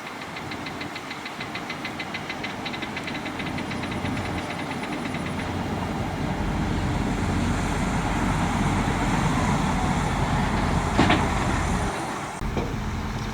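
Diesel engine of heavy earthmoving machinery working, growing louder over the first several seconds. A fast, even ticking runs through the first five seconds, and there is a single sharp clank about eleven seconds in.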